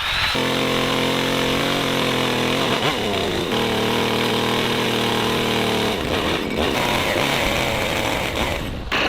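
Chainsaw engine running steadily, its pitch dipping briefly and recovering about three seconds in. The steady tone gives way to a rougher, noisier sound about two-thirds of the way through.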